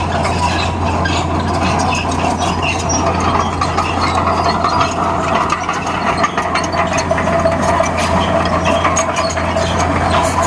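Bulldozer's diesel engine running steadily, with many light clicks and clanks over it.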